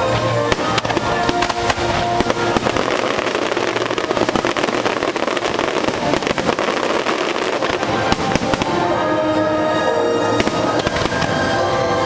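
Fireworks show: a dense run of fireworks bursts and crackles over the show's music, thinning out to fewer bursts after about eight seconds.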